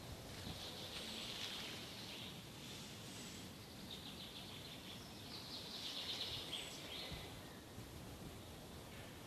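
Wild birds singing in woodland: a short, thin, very high call repeats every two to three seconds, alongside buzzy trilling phrases, over a faint low background hum.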